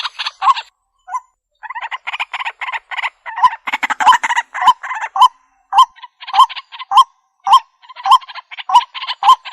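Waterhen (jal murgi) calling: a loud, fast series of harsh, rattling notes, each with a short upward hook, repeated about twice a second with a brief pause about a second in.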